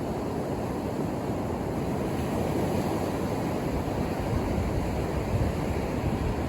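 Ocean surf washing onto the beach: a steady, deep rush of breaking waves that swells gently a couple of times.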